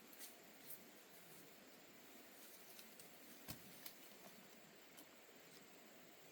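Near silence: a faint steady hiss with a few soft scattered clicks, the clearest about three and a half seconds in.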